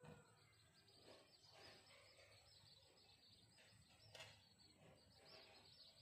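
Near silence: faint outdoor ambience with a distant bird twittering in quick, high, repeated chirps.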